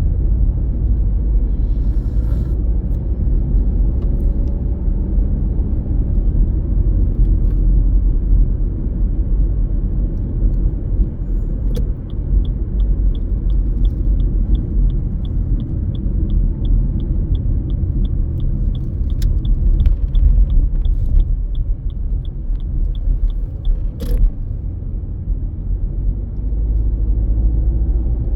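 Steady low road and engine rumble inside a moving car. About twelve seconds in, the turn-signal indicator starts ticking at about three ticks a second, and it stops with a single sharp click near the end.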